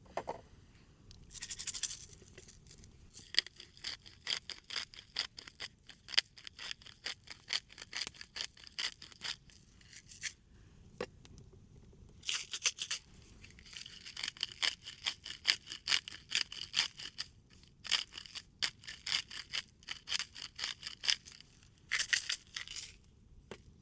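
A knife sawing back and forth through cooked steak, about three strokes a second, each stroke a short rasping scrape. The cutting comes in several runs of a few seconds each with brief pauses between them.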